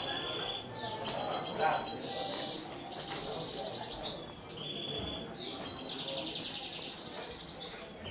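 A songbird singing: repeated high chirps, rising and falling whistles and fast trills, each trill lasting about a second, over a low murmur of voices.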